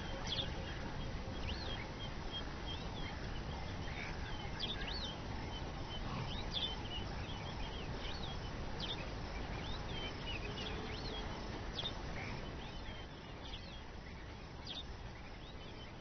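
Birds chirping in many short, repeated calls over a steady low background rumble.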